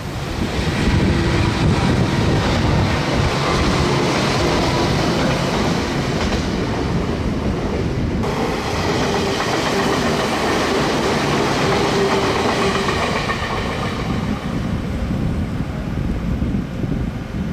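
Nagoya Railroad (Meitetsu) electric train running past, a steady loud rumble of wheels on track with clickety-clack over the rail joints and a few faint steady tones on top.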